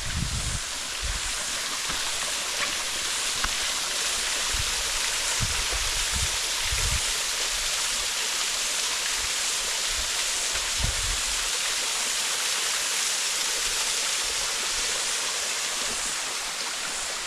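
Waterfall: a steady rush of falling water, with a few brief low bumps scattered through it.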